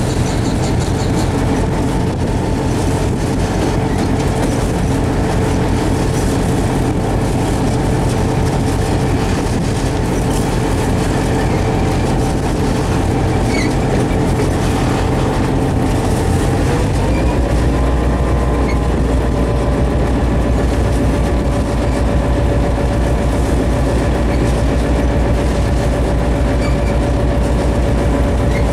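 Train locomotive running under way, heard from the driver's cab: a steady low rumble with a humming tone that glides up in pitch about two-thirds of the way through, after which the deep rumble grows louder.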